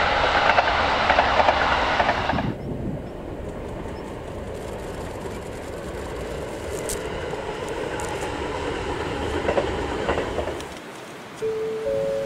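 A JR 651 series electric train running past on the rails, its wheels clicking over the rail joints. The sound drops sharply about two and a half seconds in, and a quieter, steady passing follows until shortly before the end. Near the end a station's electronic chime starts, a series of pure tones that step up in pitch, like a train-approach chime on a platform.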